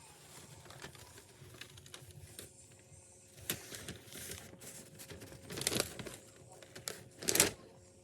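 Light clicks and rustling handling noises, with two louder rustles about six and seven and a half seconds in.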